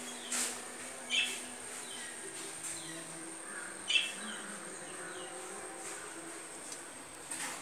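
Birds chirping in the background: a few short, sharp chirps, the loudest about a second in and about four seconds in.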